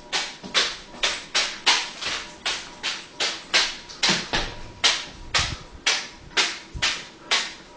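A hand slapping a small plastic pouch of fruit snacks up into the air again and again, a sharp crinkly smack about three times a second in a steady rhythm.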